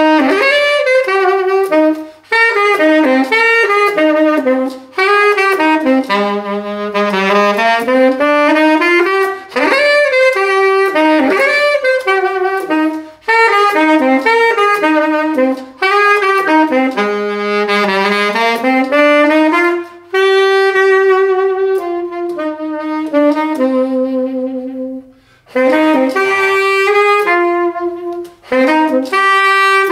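Saxophone playing a melody, its phrases broken every few seconds by short pauses for breath.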